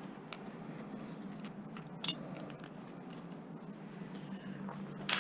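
A few sharp clicks from parts and tools being handled while a circuit board is dismantled: a faint tick near the start, a sharper click about two seconds in, and the loudest click near the end, over a low steady hum.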